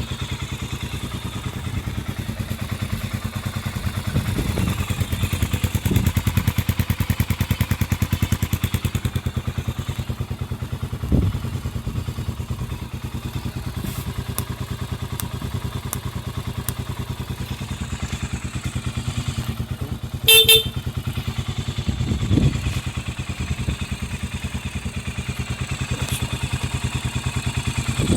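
Honda CB400SS single-cylinder engine idling through a Moriwaki Short Classic full exhaust, a steady thumping beat with a few short throttle blips. A short horn beep sounds about twenty seconds in.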